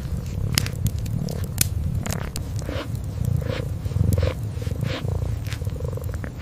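Kitten purring in a low, steady rumble, with a wood fire crackling in scattered sharp clicks.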